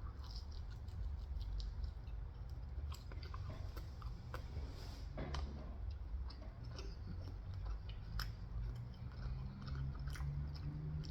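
A person chewing leftover pizza close to the microphone, with soft irregular wet clicks and smacks of the mouth.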